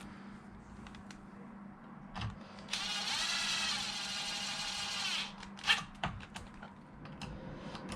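Small cordless power screwdriver running for about two and a half seconds, driving in a steering-servo mounting bolt, followed by a few light clicks.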